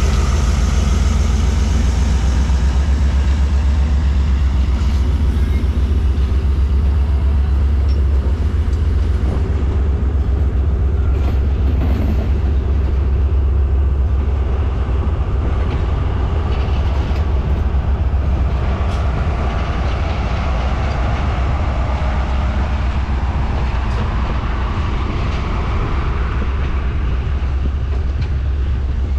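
Diesel locomotive passing with a heavy low engine rumble, then passenger coaches rolling by, their wheels giving a few sharp clicks over the rail joints. The rumble eases after about eight seconds as the coaches take over.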